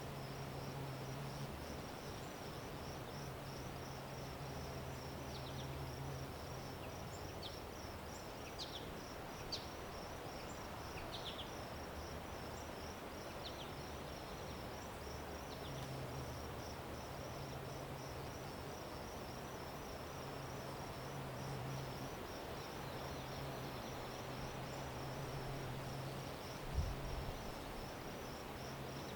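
Crickets trilling steadily in a fast, even pulse, with a few short high bird chirps in the first half over a broad outdoor background hiss. A single brief low thump comes near the end.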